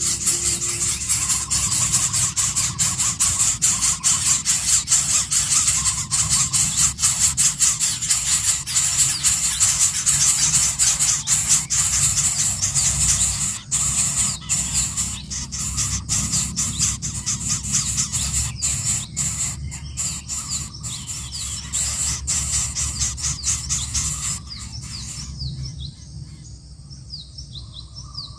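Coucal chicks calling with a loud, rapid, harsh rasping, which stops near the end and leaves faint short chirps.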